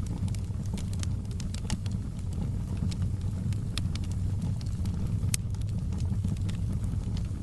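Fire in a fireplace crackling, with irregular sharp pops over a steady low rumble; one louder pop comes about two-thirds of the way through.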